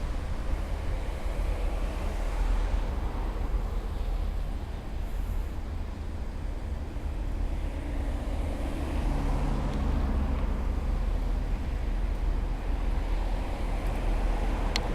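Veolia Lint diesel multiple unit running while shunting: a continuous low rumble, with a steady engine hum coming in about halfway through.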